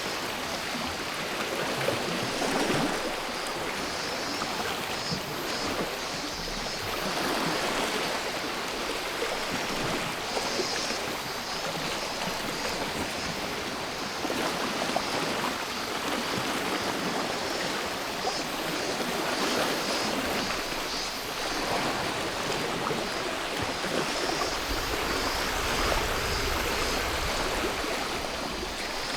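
Small sea waves washing onto the shore in soft swells every few seconds, with a steady high chorus of cicadas above them.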